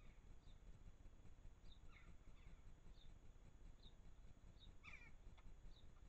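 Faint garden bird calls: a small bird repeating a short high chirp about once a second, a couple of lower calls about two seconds in, and a louder call about five seconds in, over a low steady rumble.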